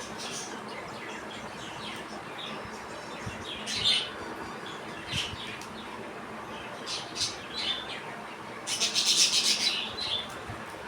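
Budgerigars chirping in short scattered calls, with a louder run of rapid chattering about nine seconds in.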